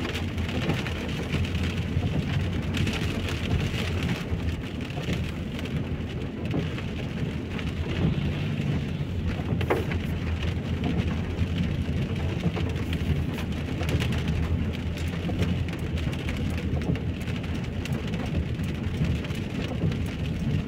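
Heavy rain falling steadily, a continuous hiss of drops splashing on the ground and puddles, with a few sharper drips now and then.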